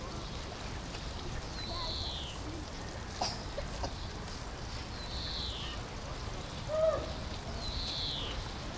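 A bird giving a short high call that falls in pitch, three times about every three seconds, over a steady low background rumble. A brief louder sound comes about seven seconds in.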